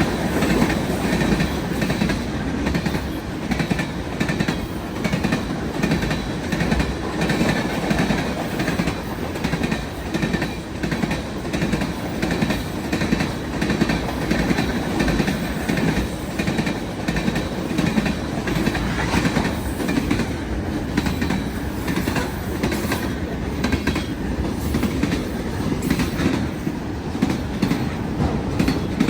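Freight cars of a mixed freight train rolling past, their wheels clicking over the rail joints in a steady repeating rhythm over a continuous rumble, with a faint thin wheel squeal.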